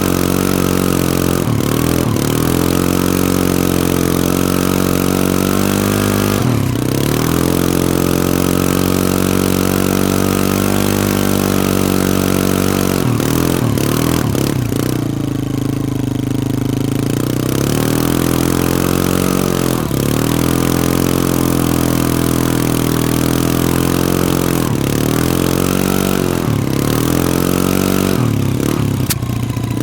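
Can-Am ATV engine running hard, the revs repeatedly rising and falling as the throttle is worked on and off, with a longer drop in revs about halfway through before it picks up again.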